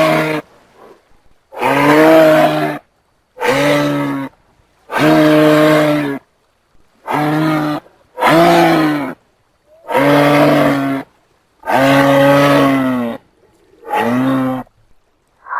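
Giraffe calls: a low, mooing call about a second long, repeated nine times at roughly one-and-a-half-second intervals, some dipping in pitch at the end.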